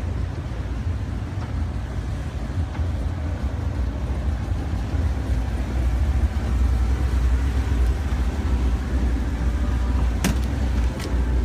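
Car engine running with a steady low rumble that swells slightly midway, and two sharp clicks near the end.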